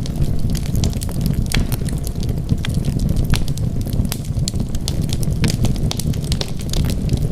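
Wood fire burning in a fireplace: a steady low rumble of flame with frequent, irregular sharp crackles and pops from the burning wood.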